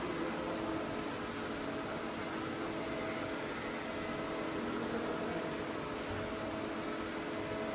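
ANCA FX5 Linear CNC tool grinder running: a steady machine hum and hiss, with a thin high whine that wavers over the first few seconds and then holds steady.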